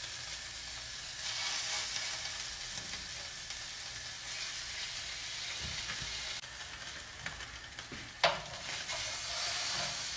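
Skin-on salmon pieces frying skin-side down in an oiled non-stick pan: a steady sizzling hiss, a little stronger after about a second as more pieces go in. A single sharp tap about eight seconds in.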